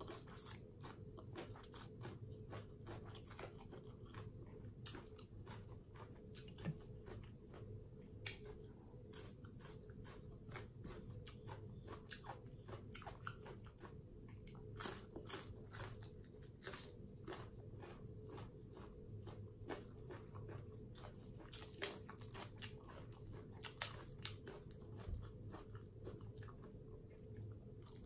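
A person chewing and crunching food: Thai papaya salad with rice noodles and raw vegetables such as okra. Many small irregular crunches and wet mouth clicks, a few of them louder.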